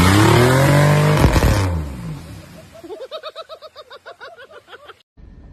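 A motor vehicle running loudly close by, its engine pitch rising and then falling within about two seconds. Then a person laughs in quick bursts for about two seconds before the sound cuts off.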